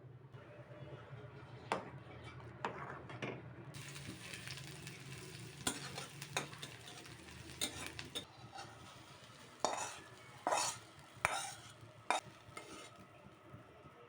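Food frying in a pan and being stirred, with a utensil scraping and clinking against the pan about a dozen times at irregular intervals over a steady sizzle.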